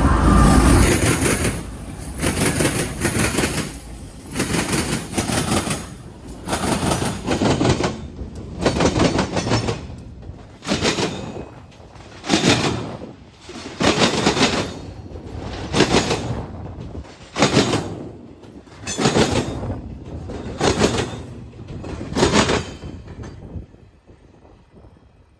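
Train wheels clacking over rail joints: a steady rhythm of paired clacks, about one pair every two seconds, which stops shortly before the end.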